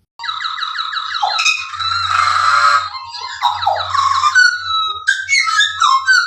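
Pied butcherbird singing: a quick run of repeated fluting notes, a harsh rasping call about two seconds in, then more varied whistled notes and glides.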